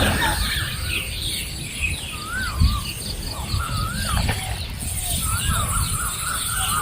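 Birds calling outdoors: many quick high chirps with a wavering, rising-and-falling call repeated every second or two, over a low steady rumble. A single short knock about two and a half seconds in.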